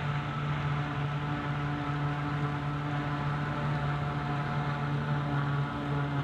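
Heavy farm machinery diesel engine running steadily at constant speed, one even drone with no change in pitch.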